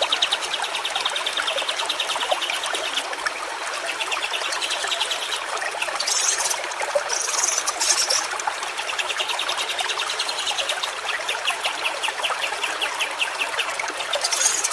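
Stream water trickling and gurgling steadily. A fast, pulsing trill comes and goes over it, and a few short high-pitched calls sound about halfway through.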